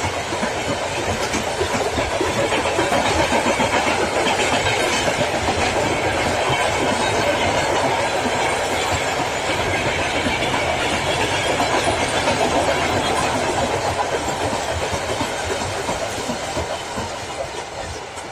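Freight train rolling past, its wagons clattering over the rail joints with a steady clickety-clack, fading away near the end as it recedes.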